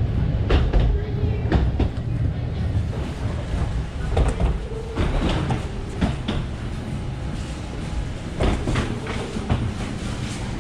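Passengers boarding through a jet bridge: a steady low rumble with irregular knocks and clatter of feet and luggage on the bridge floor.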